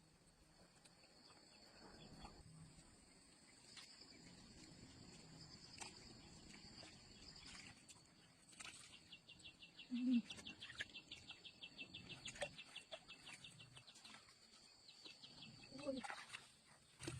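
Faint outdoor ambience with birds: a steady high chirping throughout, and a fast trill of rapid notes from about nine seconds in, lasting several seconds. A brief low call about ten seconds in is the loudest sound.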